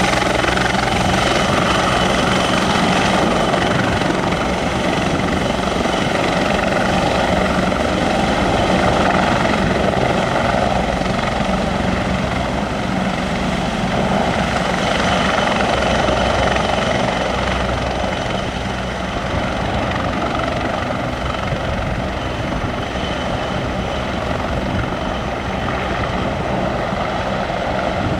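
Bell 430 twin-turbine helicopter running, a steady mix of turbine whine and rotor noise, growing slightly quieter in the second half.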